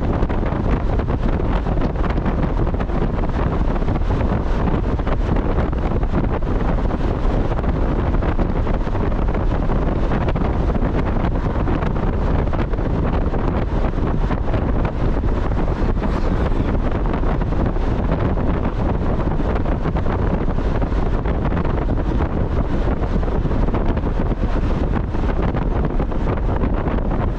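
Steady wind buffeting the microphone, mixed with the road and engine noise of a Mazda Miata driving along.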